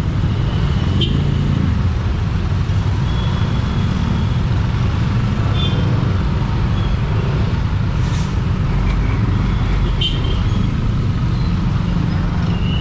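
Motorcycle ride in dense traffic: a steady low engine and road rumble, with short high-pitched tones from the surrounding traffic now and then and a couple of clicks.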